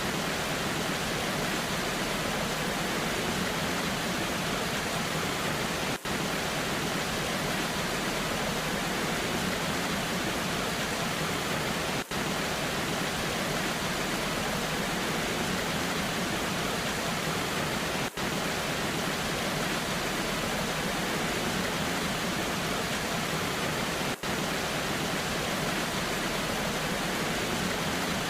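Waterfall in the rain, a steady rushing wash of water noise with no change in strength. The level dips very briefly about every six seconds.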